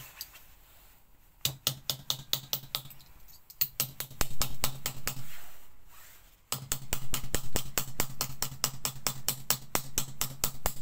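Wooden mallet rapidly hammering a spoon's bowl flat on a small steel bench anvil: sharp metallic knocks, about four a second. They start about a second and a half in, pause briefly around five seconds in, then carry on steadily.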